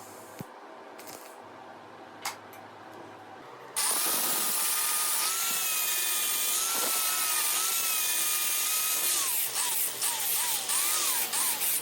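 Power grinder blending weld repairs on a steel dirt bike frame. After a few light clicks, it starts suddenly about four seconds in and runs with a steady whine over a loud hiss; near the end the whine dips and recovers in pitch several times in quick succession.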